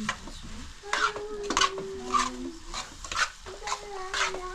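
Kitchen clatter: irregular sharp clinks and scrapes of utensils against pots or dishes, about two a second, with short held tones between them.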